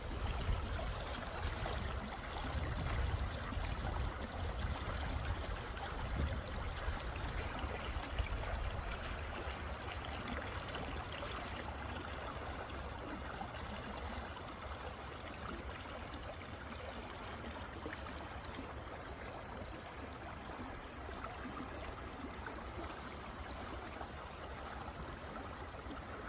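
Stream of water running steadily, a continuous rushing and trickling. A low rumble sits under it for about the first ten seconds, then fades.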